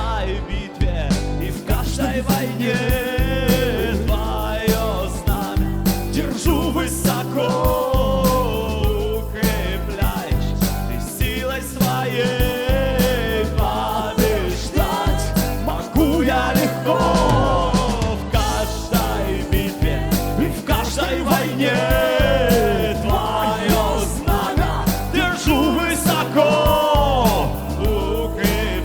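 Church worship band playing a rock-style song: a steady beat of drums and bass under a sliding melody line, with some singing.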